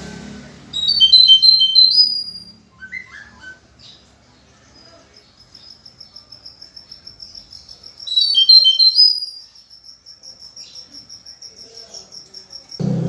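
A songbird singing: two loud phrases of quick, high notes, about a second in and again about eight seconds in, with a long, fast string of high repeated notes running between and after them.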